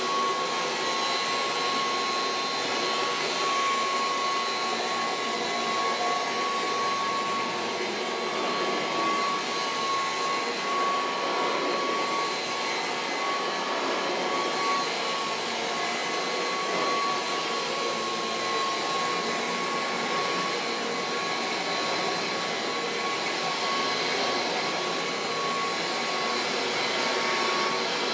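Kirby Heritage II upright vacuum cleaner running steadily, a rush of air with a steady whine over it.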